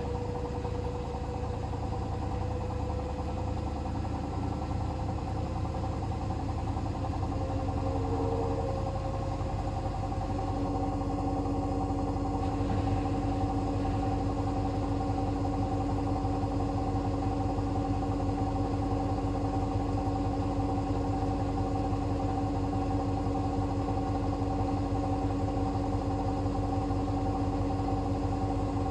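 Hoover H-WASH 500 washing machine running, a steady motor hum with a whine whose pitch shifts about a third of the way in as the drum motor changes speed, then holds steady.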